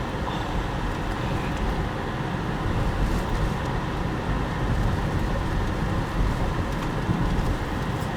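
Car driving slowly, a steady low rumble of engine and tyres on the road heard from inside the cabin, with a few faint ticks.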